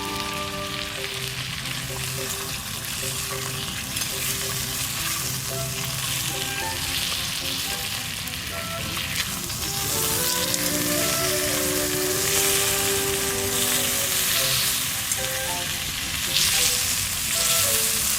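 Food sizzling and spitting in a hot frying pan over a wood fire, a little louder in the second half.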